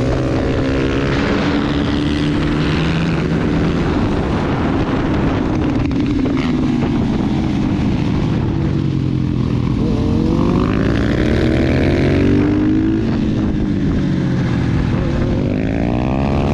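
Husqvarna FS 450 supermotos' single-cylinder 450cc engines running hard on a race track. The pitch climbs and drops again and again with throttle and gear changes, and at times two engine notes overlap.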